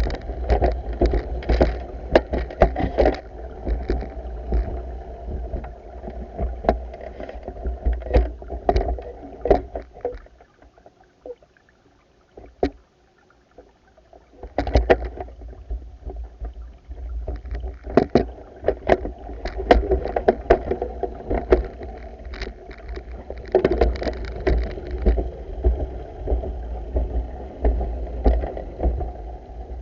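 Pool vacuum at work: a steady low rumble of water and suction, broken by many sharp clicks and knocks. It drops almost away for about four seconds midway, then resumes.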